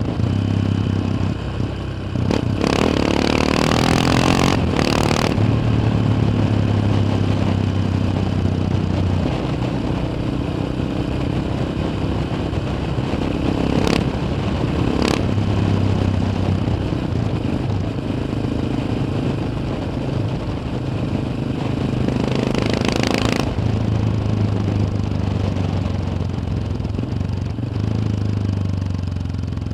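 Yamaha XT 600's single-cylinder four-stroke engine running steadily as the bike is ridden, heard from on board, with some clatter. Two louder rushes of noise, one a few seconds in and one about three quarters of the way through, and two sharp clicks about a second apart near the middle.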